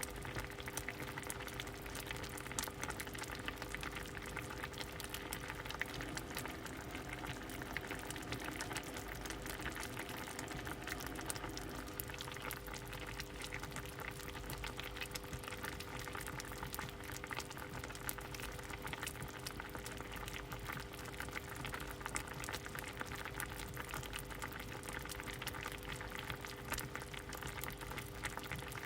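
A pot of soup boiling steadily, with a dense, continuous bubbling and popping. A faint steady hum sits beneath it.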